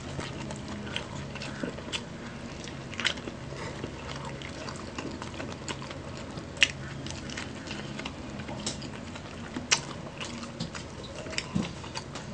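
Close-miked chewing and biting of a chicken sandwich and roast chicken, with irregular sharp mouth clicks and smacks. A low steady hum lies underneath and fades near the end.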